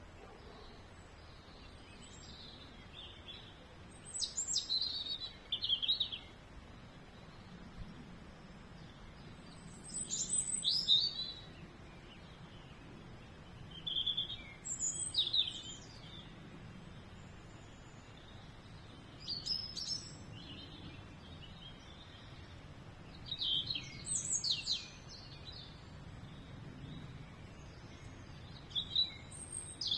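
A songbird singing short, quick, varied phrases, one about every five seconds, over a faint steady background noise.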